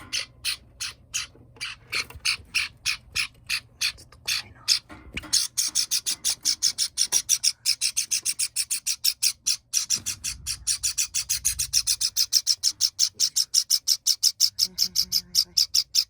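Young Java sparrow calling over and over in short, high cheeps, about two or three a second at first, then from about five seconds in faster, louder and shriller, about six a second: food-begging calls, which the owner takes for asking to be fed.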